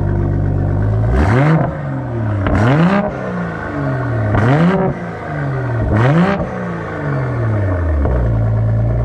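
A parked car's engine idling, then revved four times, each rev climbing quickly in pitch and dropping back, before it settles to a steady idle again about eight seconds in.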